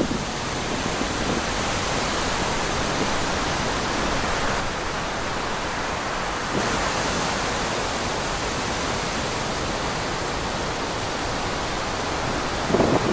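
Steady rushing of wind through trees, an even hiss with no distinct events, rising briefly into a louder, lower gust near the end.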